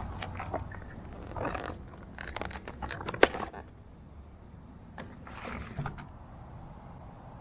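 Metal exhaust parts and a V-band clamp being picked up and handled: bursts of scraping and rattling with a sharp metallic clink about three seconds in.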